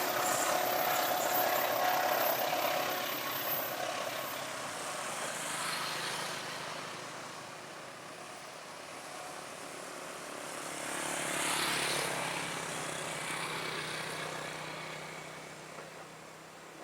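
Vehicle noise dying away, then a second vehicle passing by, loudest about twelve seconds in with a falling pitch, before fading out.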